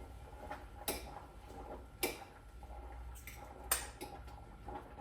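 Three sharp, light knocks of kitchen things being handled, over a low steady hum.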